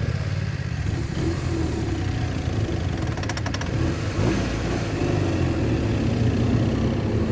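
BMW R1200 motorcycle's boxer-twin engine running under varying throttle as the bike rides, its pitch rising and falling. A brief run of clicks about three seconds in.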